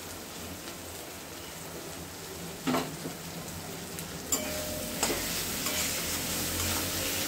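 Chopped tomatoes and onion masala frying in a steel kadai: a steady sizzle, with a steel spatula stirring and knocking against the pan a few times. The stirring and sizzle get louder about four seconds in.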